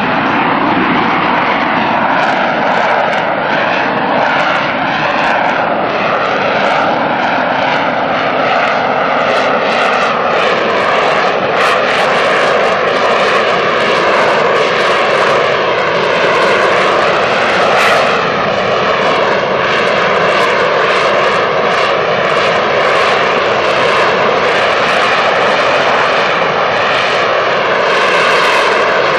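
Rolls-Royce Pegasus turbofan of an AV-8B Harrier II jet running loudly and steadily, a continuous jet roar whose tone shifts slowly.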